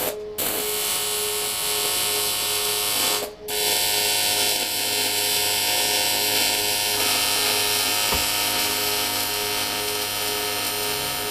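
AC TIG welding arc on cast aluminium, a steady buzzing hiss that cuts out briefly about three seconds in and then strikes up again, as a reinforcing rib of the alloy bash plate is welded.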